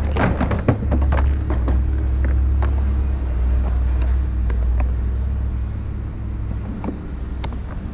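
A vehicle engine running with a steady low rumble, with a cluster of knocks and rattles in the first couple of seconds and a single sharp click near the end.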